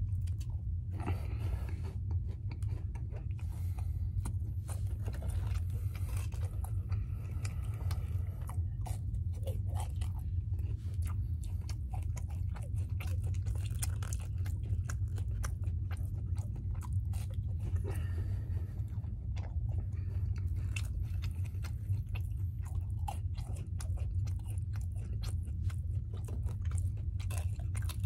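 Close-up chewing and biting of French toast sticks dipped in syrup, with many short crisp clicks and crunches, over a steady low hum.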